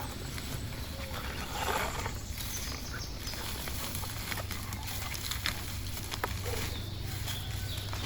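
A farm animal's short call about two seconds in, over scattered clicks and knocks.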